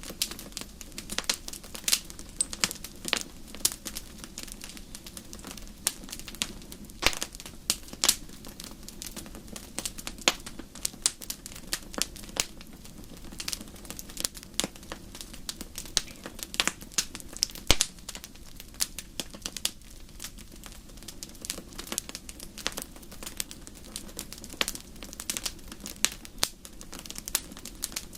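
Campfire burning: irregular snaps and pops of burning wood over a low steady rumble.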